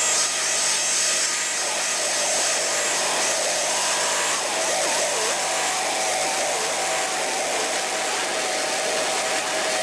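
Noise music: a loud, steady wall of hiss with thin held tones running through it and small warbling dips in pitch.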